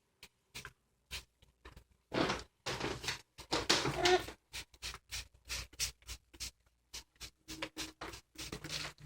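A hand spray bottle giving a cockatiel a shower: many quick short spritzes, with a longer noisy stretch about two seconds in.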